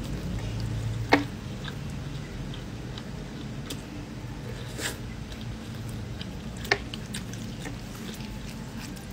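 Close-up eating sounds: wet chewing and lip smacking as roast meat and rice are eaten by hand. Three sharp clicks stand out, the loudest about a second in, over a steady low hum.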